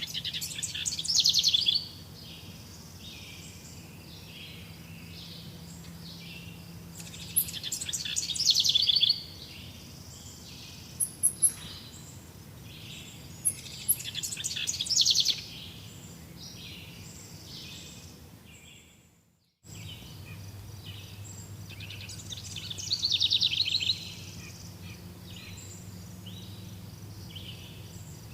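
Forest birds singing: one bird repeats a loud trilled song phrase about every seven seconds over a chorus of softer chirps. The sound briefly fades out to silence about two-thirds of the way through, then comes back.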